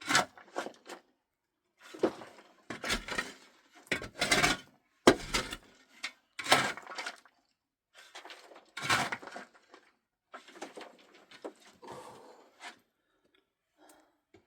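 Irregular knocks, cracks and short scrapes of hard objects being handled, loudest in the first half and thinning out to faint ticks near the end.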